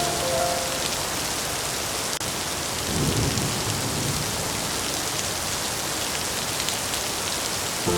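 Steady rain falling, with a low roll of thunder about three seconds in.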